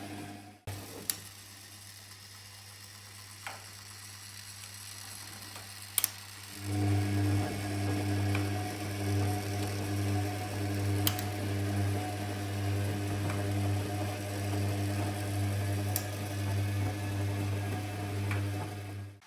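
Gorenje PS 1008 BM washing machine running with a steady electric hum. The hum gets louder about a third of the way in, and faint clicks come about every five seconds.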